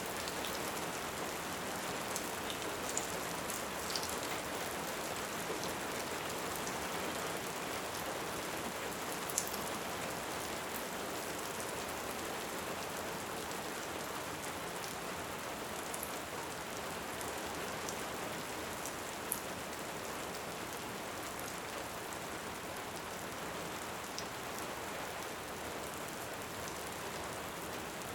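Steady rain hissing, with a few sharp pops scattered through it, the crackle of a wood fire.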